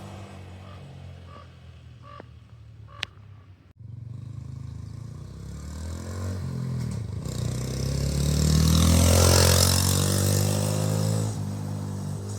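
Honda Trail 125's single-cylinder engine exhaling through a billet exhaust end cap that replaces the stock spark-arrestor baffle. It is faint at first, with a couple of sharp clicks. It then grows louder as the motorcycle approaches, is loudest as it passes about nine seconds in, and fades away.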